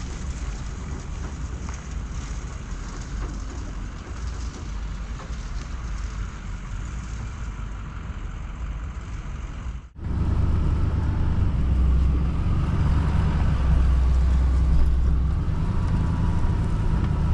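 SnowEx salt spreader on a dump truck throwing rock salt onto pavement: an even, rain-like hiss of granules over the truck's running engine. About ten seconds in, the sound breaks off and gives way to a louder, deeper steady engine rumble from the truck.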